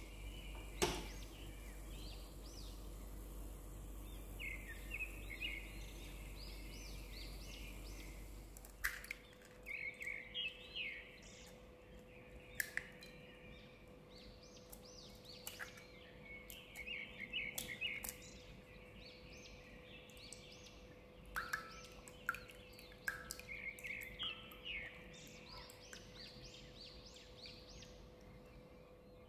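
Small birds chirping in quick, repeated short calls, with a few sharp clicks and taps scattered among them. A low hum stops about nine seconds in.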